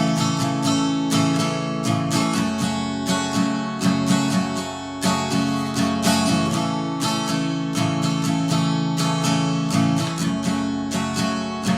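Acoustic guitar strummed in a steady rhythm through an instrumental break, with no singing.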